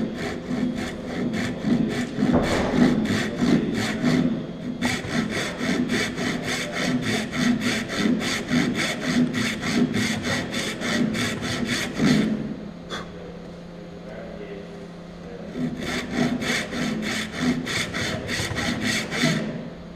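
Hand saw cutting straight down into a wooden tenon, in quick, even back-and-forth strokes of about three a second. This is the first vertical cut down to the depth line, which forms the track that guides the later angled cuts. The sawing stops for a few seconds about two thirds of the way through, then resumes and stops again just before the end.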